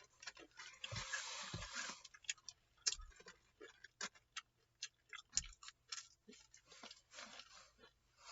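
Faint crunching of someone eating crispy fried chicken, with a short crunchy stretch about a second in and scattered small clicks.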